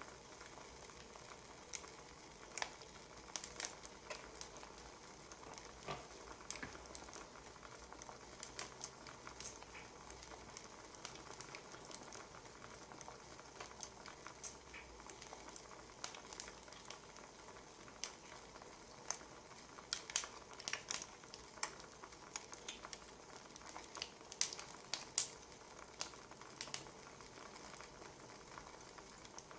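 Quiet wood fire crackling: irregular sharp pops and snaps over a low, steady hiss.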